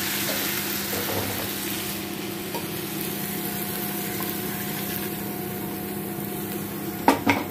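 Tadka of spices, onion and tomato in hot oil sizzling steadily over a faint hum, with two or three clanks of a pan or spoon near the end.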